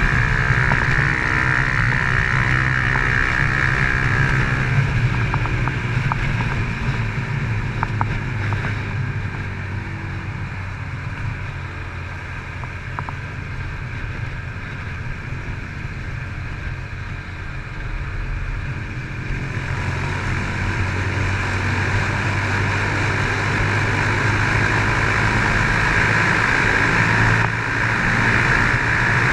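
Honda CG Titan 150's single-cylinder four-stroke engine running through a Fortuna aftermarket exhaust while riding, with wind on the microphone. The engine note eases off and goes quieter through the middle, then picks up again toward the end.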